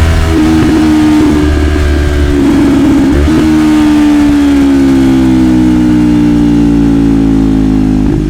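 Yamaha YZF-R3's parallel-twin engine through an Arrow Pro-Race slip-on exhaust, pitch stepping a few times in the first three seconds, then falling slowly and steadily as the engine speed drops, with a brief change near the end.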